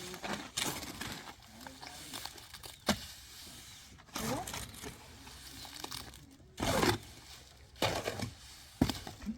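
Irregular sharp knocks, about five spread over several seconds with rustling between them, and faint voices.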